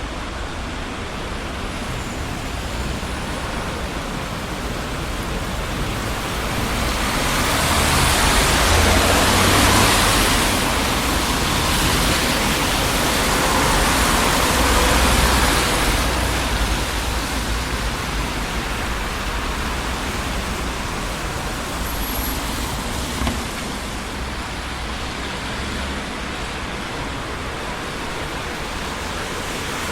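Steady traffic noise of a busy city street: a continuous rush of tyres and engines, swelling as vehicles pass, the loudest pass lasting from about a quarter to half of the way through.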